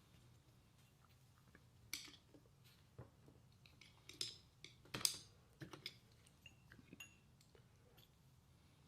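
Faint, scattered light clicks and clinks of small parts being handled on a workbench, with the sharpest ones about two and five seconds in.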